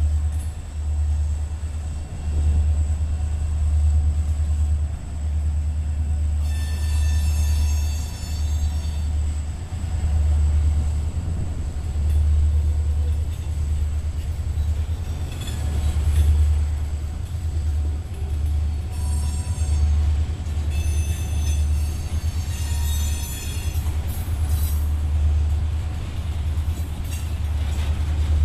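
Freight cars of a passing train rolling by with a steady low rumble of wheels on rail, and high-pitched wheel squeals about a quarter of the way in and again around two-thirds through.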